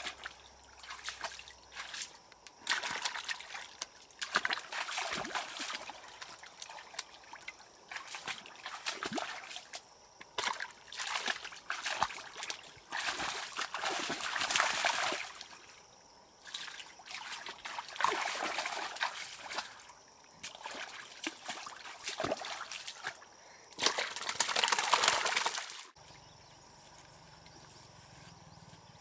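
Water sloshing and trickling in irregular bursts of a second or two, stopping abruptly about 26 seconds in.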